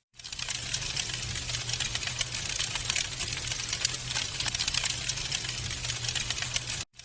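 Wood fire crackling, with dense, irregular small pops and snaps over a low steady rumble of burning. The sound fades in at the start and cuts out briefly just before the end.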